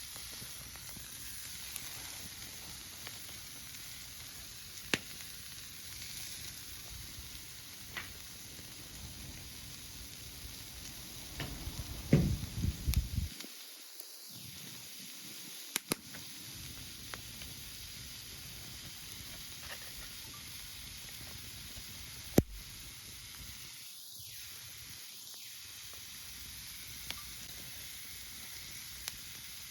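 Pork jowl sizzling on a grill over a campfire, with steady hissing and scattered sharp crackles and pops from the fire. A burst of louder knocks and crackles comes about twelve seconds in, and a single sharp pop a little past twenty-two seconds.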